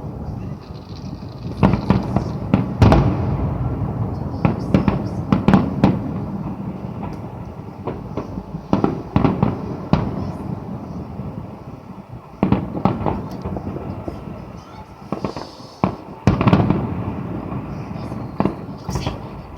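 Fireworks going off: an irregular run of sharp bangs and crackles, coming in loud clusters with short lulls between them.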